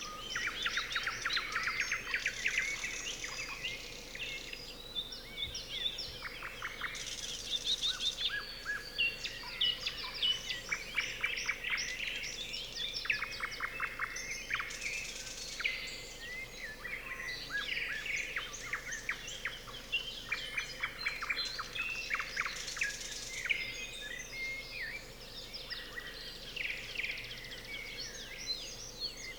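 Nightingales singing in a chorus of songbirds, a dense run of overlapping phrases built from rapid repeated notes, clicks and trills.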